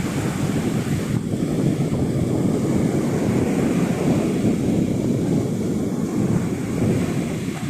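Wind buffeting the microphone over the steady wash of sea surf on the beach, a continuous low rumbling rush with no breaks.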